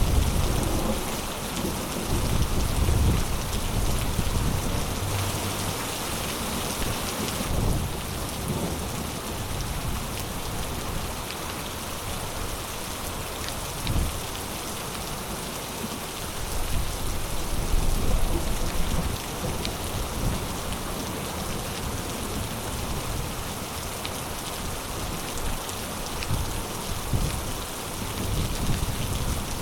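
Heavy rain falling steadily in a thunderstorm, with low rumbles swelling and fading several times.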